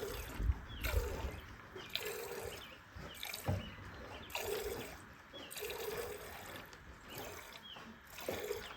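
Milk squirting from a cow's teats into a pail during hand milking: short hissing streams, roughly one a second and unevenly timed.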